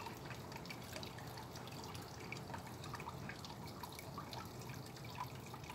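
Faint, steady dripping and trickling of water, with scattered small ticks.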